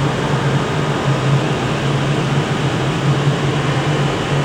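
Steady low mechanical hum under a constant rushing noise, the machinery drone of a covered railway station.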